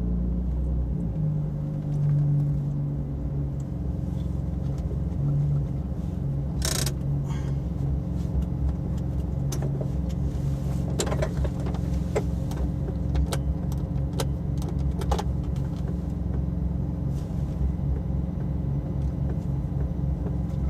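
Nissan 350Z (Z33) 3.5-litre V6 idling, hot from track driving. From about seven seconds in, sharp clicks or knocks come at irregular intervals, roughly one a second: an unexplained 'kotton… kotton…' of something moving in the car that the owner cannot place.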